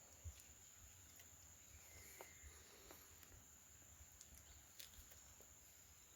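Near silence: a faint steady high-pitched hum, like crickets, with a few faint scattered clicks.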